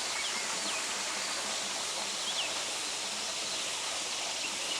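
Steady rush of a forest stream or waterfall, with a few short bird chirps above it near the start, about halfway through and near the end.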